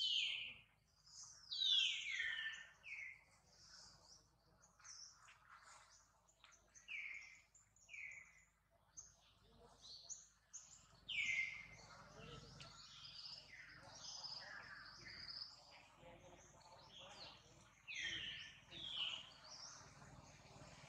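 Wild birds chirping: many short calls that slide down in pitch, coming in bunches, with the loudest runs near the start, around the middle and near the end.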